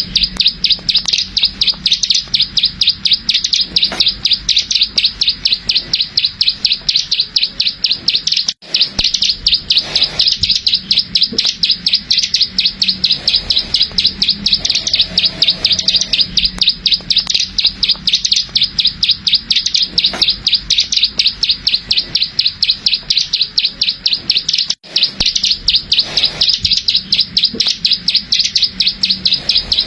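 Ciblek sawah, a small prinia, singing its 'klik-klik' song: a rapid, continuous run of sharp, high clicking notes at an even pace, broken by two very short gaps.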